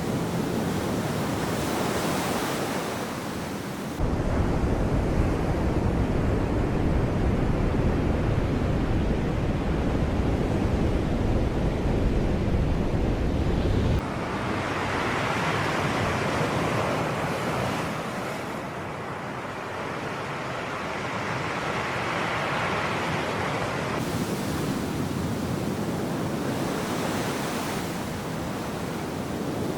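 Sea surf breaking and washing on the shore, a steady rush that swells and ebbs with each wave. From about four seconds in until about fourteen seconds a deep low rumble joins in and the sound is louder; both changes are abrupt.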